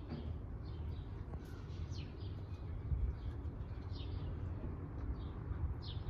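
Small birds chirping: short, high, falling chirps about once or twice a second, over a steady low rumble.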